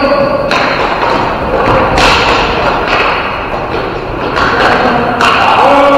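Ball hockey play: the ball and sticks thudding and knocking, with three sharp knocks standing out over the steady din of the game.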